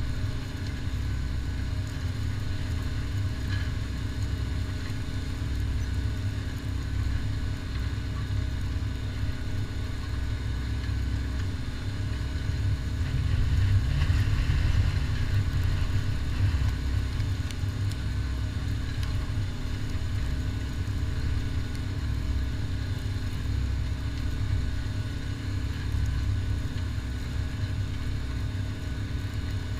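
Fendt 720 tractor's six-cylinder diesel engine running steadily while pulling a five-furrow plough, briefly louder about halfway through.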